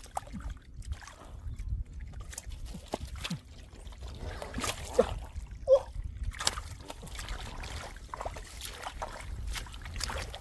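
Splashing and sloshing in shallow muddy water, with irregular wet slaps and clicks. Two brief, louder sounds come about five and six seconds in.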